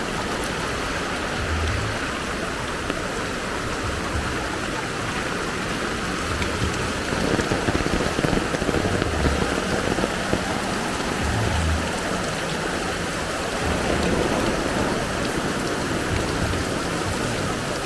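Heavy rain falling steadily on a flooded street, a dense even hiss, with short low thuds every couple of seconds.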